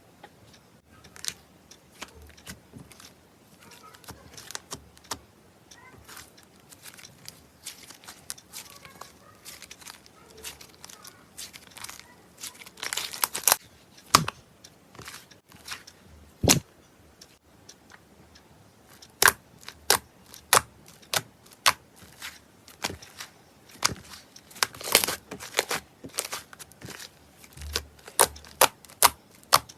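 Slime being squeezed and poked by hand: a string of irregular sharp clicks and pops, with denser crackly stretches about 13 seconds and 25 seconds in.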